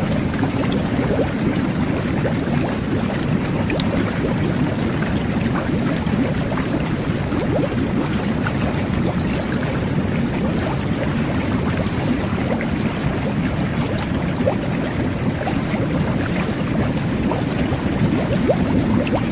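Jet bath running: water jets churning the bathwater into a steady, dense bubbling rush with small popping bubbles throughout.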